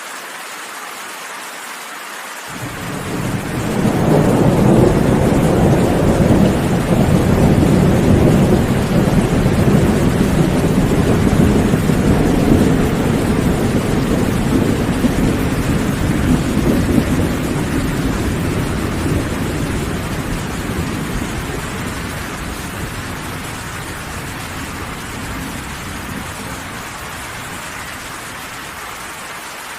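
Steady rain with a long roll of thunder that comes in about two seconds in, stays loud for some fifteen seconds, then slowly rumbles away near the end.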